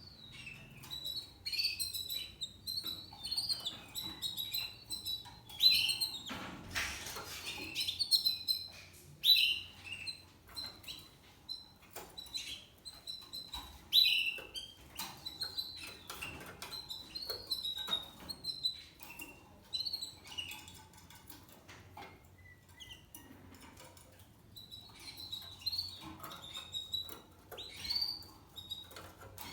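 Spanish Timbrado canary singing: phrases of quick chirps and trilled notes centred on one high pitch, broken by short pauses. A brief rustling noise about seven seconds in, and a quieter lull a little past the middle.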